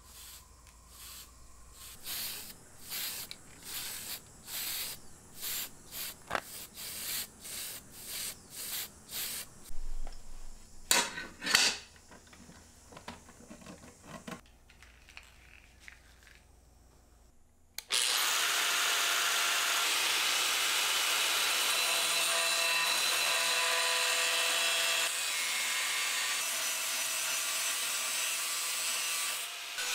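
Quick hand-tool strokes in a steady rhythm of about two a second, then a power tool that starts suddenly and runs steadily, its loudest part, for the last twelve seconds or so.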